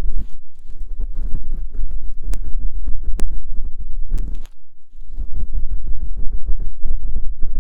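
Close-miked ASMR ear cleaning: rapid scratching, rubbing and tapping at the microphone's ear, with a couple of sharp clicks and a brief pause about halfway.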